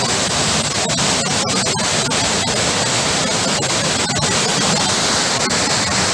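Waterfall and fast river water rushing, a loud steady hiss.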